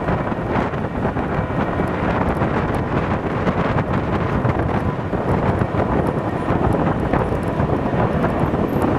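Strong wind buffeting the microphone: a loud, steady, rough rumble that never lets up.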